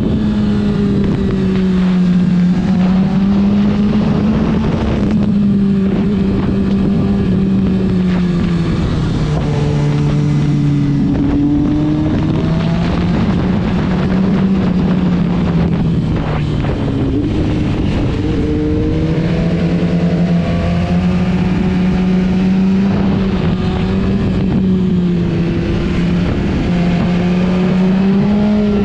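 Motorcycle engine running hard on a track lap, its note rising and falling repeatedly as the rider accelerates and backs off, over a rushing noise of air.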